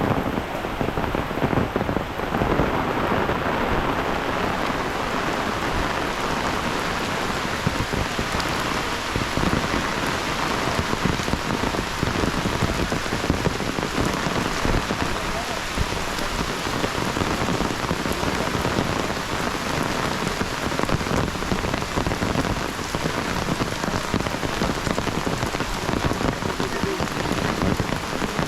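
Heavy rain falling steadily, a dense, even hiss of countless drops hitting surfaces.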